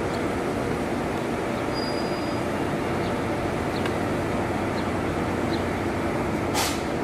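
Steady low rumble of a New Jersey Transit commuter train rolling slowly past the platform. A few light clicks come through, and there is a short, sharp hiss near the end.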